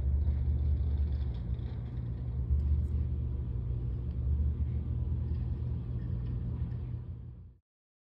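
Low, steady rumble that cuts off suddenly near the end.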